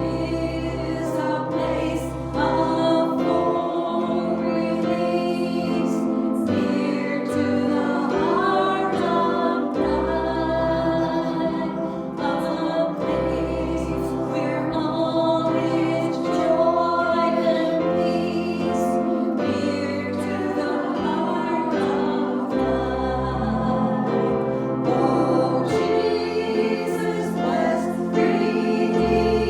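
Gospel music: a group of voices singing a hymn over instrumental accompaniment, with a bass line that changes note every few seconds.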